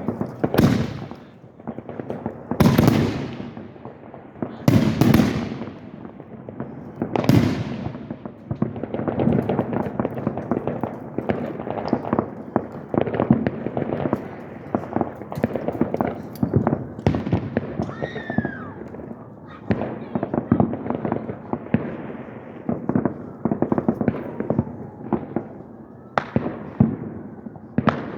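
Aerial fireworks exploding: four big shell bursts a couple of seconds apart, then a long stretch of dense rapid crackling from crackle shells, with a brief whistle partway through and another burst near the end.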